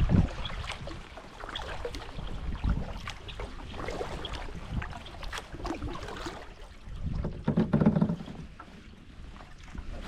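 Canoe being paddled: paddle strokes in the water, with small clicks and drips, and a louder stretch of splashing about seven and a half seconds in.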